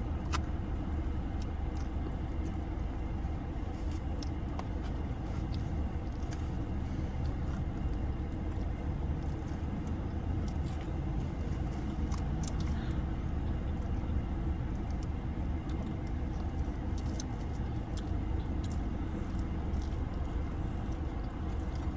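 Car on the move: a steady low rumble of engine and road noise, with a few faint clicks.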